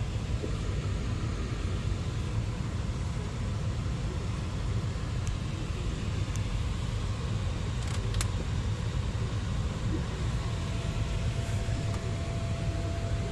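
Steady low rumble of background noise, with a couple of faint clicks about eight seconds in.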